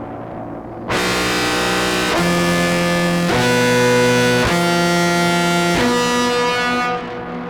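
Contrabass clarinet through an octave pedal and fuzz on a mixed-octave setting, with reverb. After a fading tail, it plays a phrase of about five sustained notes, each about a second long at a different pitch. The phrase stops about a second before the end and the reverb rings on.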